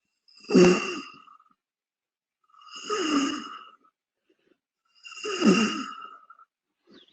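A person breathing out audibly three times, each exhale about a second long and about two and a half seconds apart, with a slight voice in it. The breaths are the gentle exhales of a qigong squeezing movement that pushes out the breath.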